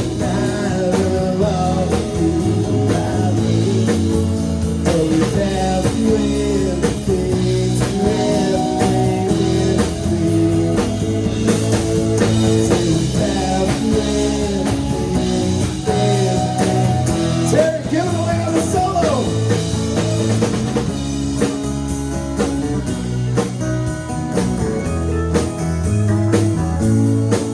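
Live band playing an instrumental break: a lead guitar with bending, sliding notes over bass and drum kit, in a blues-rock style.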